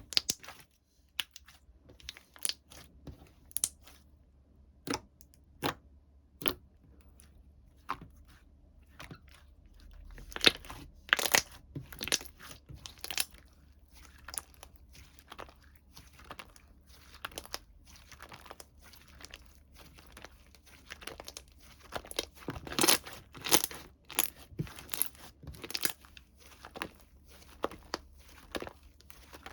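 Hands handling the contents of a slime box, making irregular crinkling, crunching and tearing sounds. The sharp crackles come in clusters about ten seconds in and again a little past twenty seconds.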